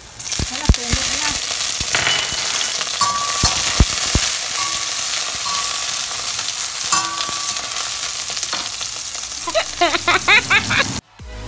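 Garlic and scallops sizzling in hot oil in a stainless steel wok, with a metal spatula stirring and clacking sharply against the pan a few times. Near the end comes a short run of bending pitched sounds.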